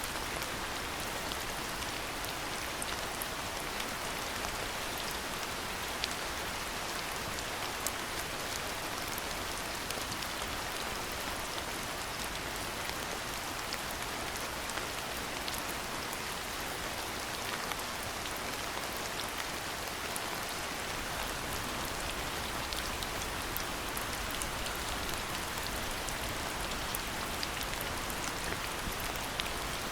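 Steady rain falling: an even hiss with many scattered, sharp drop ticks.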